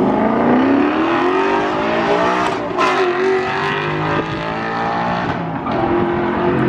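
Nissan 370Z's V6 through a full Tomei exhaust, pulling hard under acceleration: the engine note climbs for a couple of seconds, breaks at a gear change, climbs again, then settles to a steadier note.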